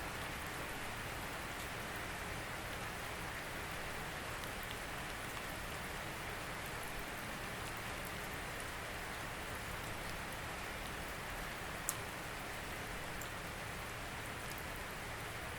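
Steady rain falling, an even hiss, with a few louder individual drops striking close by, the clearest about twelve seconds in.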